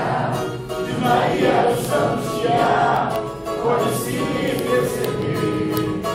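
A group of voices singing a song together in chorus, with musical accompaniment.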